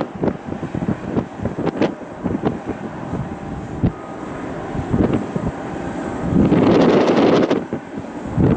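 Jet airliner engines running across the airfield, mixed with gusty wind buffeting the microphone, with a louder surge about two-thirds of the way through.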